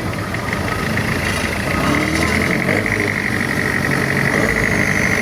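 Boat engine running steadily under way, with a steady high-pitched whine that grows stronger about two seconds in.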